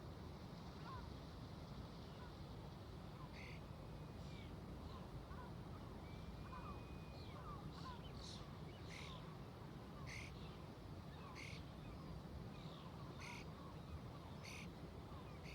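A flock of seagulls calling, with short, sharp calls coming about once a second from a few seconds in and fainter chirps underneath. Beneath them runs a steady low rumble of ocean waves and distant traffic.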